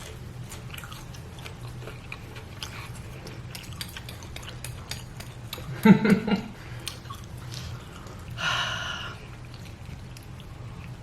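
Fried chicken being bitten and chewed close to the microphone: many small crisp crunches and mouth clicks. A short loud vocal sound comes about six seconds in, and a brief noisy sound follows at about eight and a half seconds.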